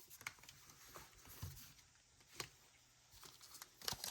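Faint, scattered light taps and rustles of trading cards being handled, a few more together near the end.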